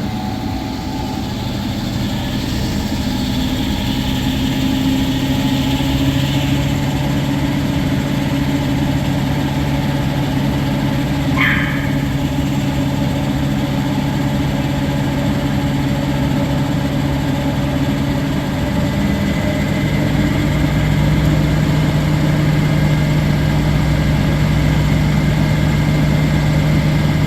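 Washing machine on its spin cycle, spinning so fast it's shaking: a steady motor and drum hum that rises in pitch and gets louder about two-thirds of the way through as the spin speeds up. There is one brief squeak near the middle.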